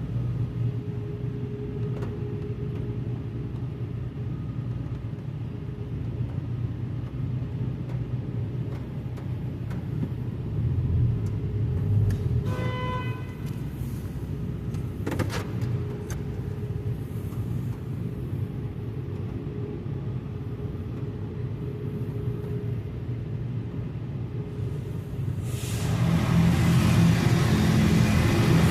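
Steady low rumble of a car idling in an automatic car wash. About halfway through a short beep sounds, and a few seconds before the end a loud hissing rush from the wash equipment starts up and grows.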